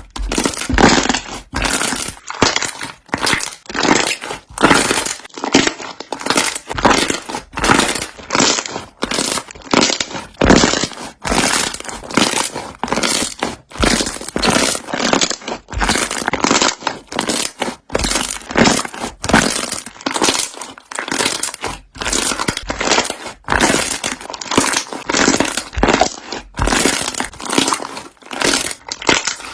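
Slime being squeezed and pressed by hand, its trapped air bubbles popping in dense runs of sharp, crackling pops that swell in waves about once a second.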